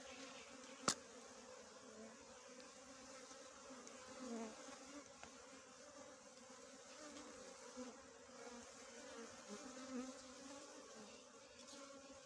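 Small bees buzzing in a steady, faint hum that swells now and then. A single sharp click comes about a second in.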